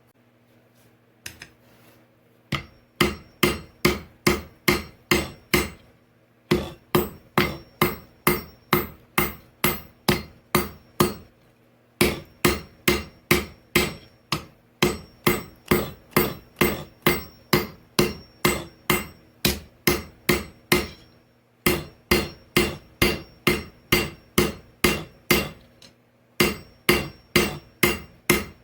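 Hand hammer forging a hot old file on an anvil to draw out a knife point: sharp blows with a ringing note, at a steady two to three a second in runs broken by short pauses. A steady low hum from the running forge lies beneath.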